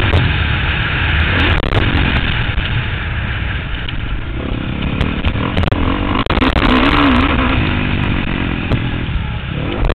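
Motocross bike engine running hard and changing revs as it is ridden around a dirt track, heard from a helmet camera on the rider.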